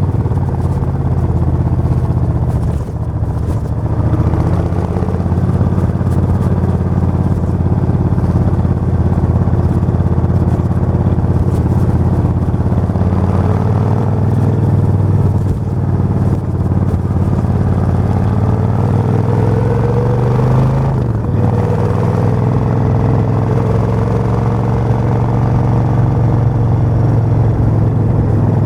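Suzuki VS1400 Intruder's V-twin engine running, its engine speed rising and falling, with a brief drop in sound about two-thirds of the way through.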